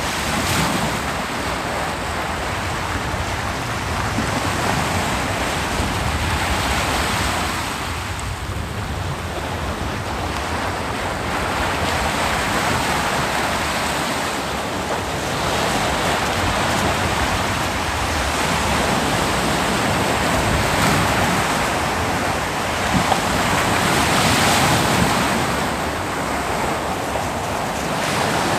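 Ocean waves breaking on a beach in a continuous wash of surf, swelling and easing every several seconds as each wave comes in.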